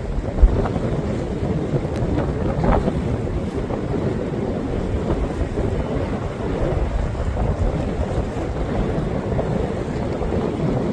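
Strong wind buffeting the microphone: a steady low rushing rumble, with a sharp low bump about half a second in.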